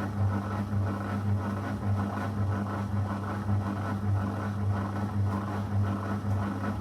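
Zanussi FL984CN front-loading washing machine running mid-cycle: a steady low hum under a swishing noise that swells and falls in a regular rhythm.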